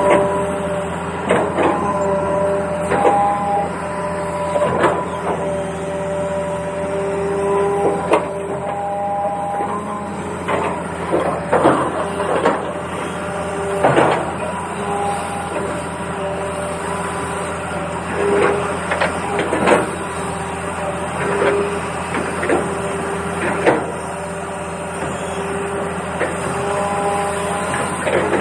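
Small electric gear motors of a toy excavator whirring in short runs, switching between a few steady pitches, with frequent sharp plastic clicks and knocks.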